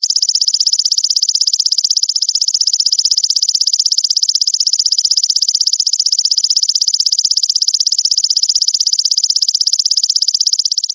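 Grasshopper (belalang) singing a continuous, rapidly pulsing high buzz.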